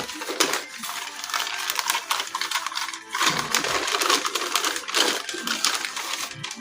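Small plastic toy train cars clicking and clattering against each other as they are handled and lifted out of a box, with rustling between the clicks.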